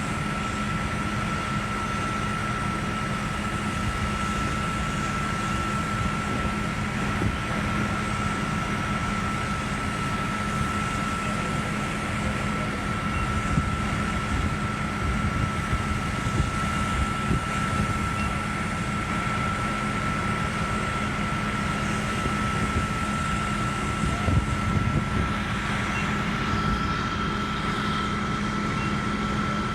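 Fire engine running steadily at a fire scene, a constant engine drone with a steady high whine from its pump, and a few brief louder bumps.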